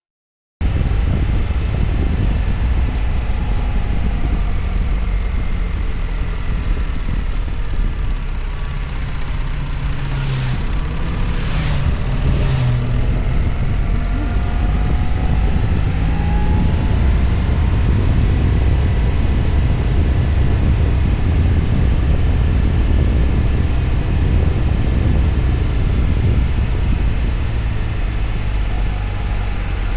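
BMW R1300GS boxer-twin motorcycle engine running under way, its pitch rising and falling with the throttle. Heavy low rumble of wind buffeting the microphone runs over it, with a brief louder rushing patch about a third of the way in.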